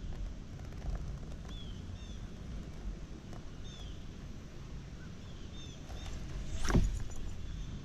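Wind rumbling on the microphone, with a bird repeating short downward-sliding chirps. A single sharp thump comes about two thirds of the way through.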